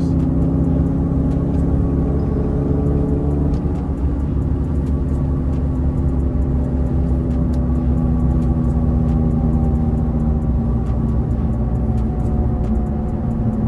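Infiniti G37's VQ V6 running through a loud aftermarket exhaust at a steady cruise, a continuous droning engine note heard from inside the car; the pitch drops slightly about four seconds in, then holds steady.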